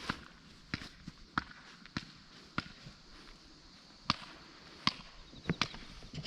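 A series of sharp knocks, about ten, coming irregularly at roughly one a second.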